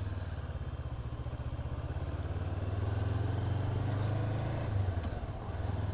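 Honda CB500F's parallel-twin engine running under way at low city speed, slowly building in level and then dipping briefly about five seconds in.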